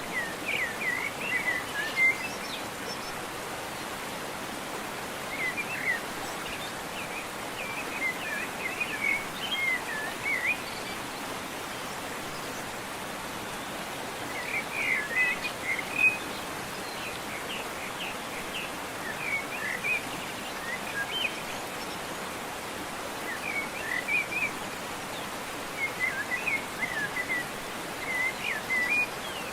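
Steady rush of running water, with a songbird singing warbling phrases in repeated bouts every few seconds.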